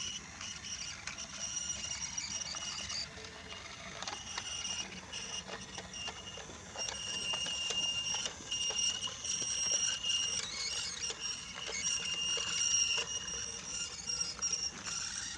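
Brio toy train running along wooden track: a thin, high-pitched motor whine that drops in and out, with light clicking of the wheels over the track.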